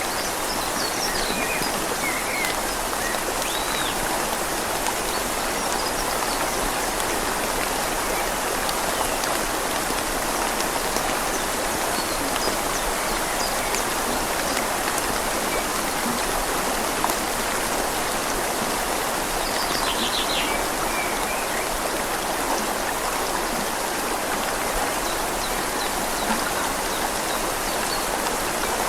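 Steady rain falling on leaves over the even rush of a flowing river. A few faint high chirps come near the start and again about two-thirds of the way through.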